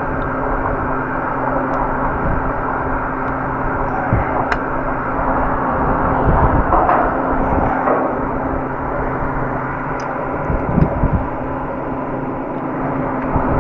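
Portable fan running steadily close by: a constant whooshing rush with an even motor hum underneath, broken by a few light ticks and knocks.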